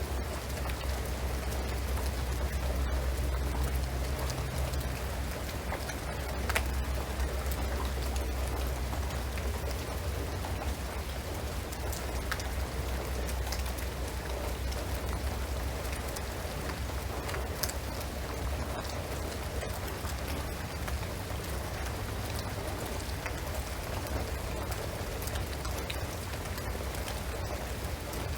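Steady rain falling on a shingled roof and pine trees, with the patter of individual drops scattered through a constant hiss and a low rumble underneath.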